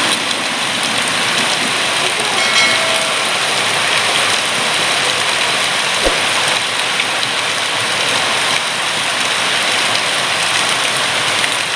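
Heavy rain falling steadily, a dense even hiss of rain on surfaces, with one short knock about six seconds in.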